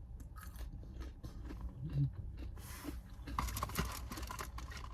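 Paper fast-food wrapper rustling and crinkling while a hash brown is handled and eaten, with scattered clicks at first and denser crackling from about halfway through, over a low steady hum.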